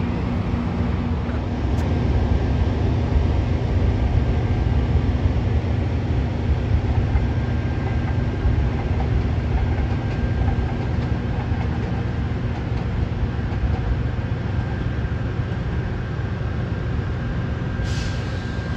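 Steady heavy low rumble of a Metrolink diesel locomotive standing nearby, mixed with a Metro Kinkisharyo P3010 light-rail train running past and pulling away. A thin steady high whine comes in about a second and a half in.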